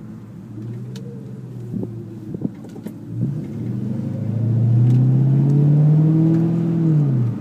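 A 2002 Mustang GT's 4.6-litre V8, heard from inside the cabin, accelerating: after a few light knocks, the revs climb steadily from about three seconds in, hold high at the loudest, then fall away just before the end.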